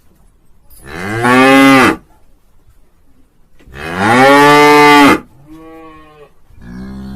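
Cow mooing: two long, loud moos that rise and then fall in pitch, followed near the end by two shorter, quieter moos.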